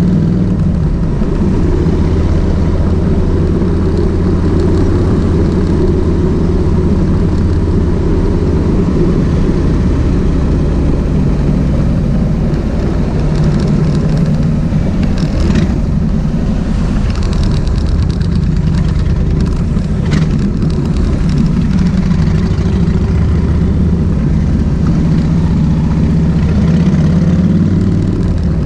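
Kawasaki VN1600 Mean Streak's V-twin engine running steadily, its pitch shifting a few times.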